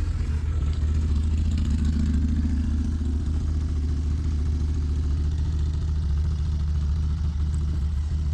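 Steady low drone of a running motor, holding an even level and pitch throughout.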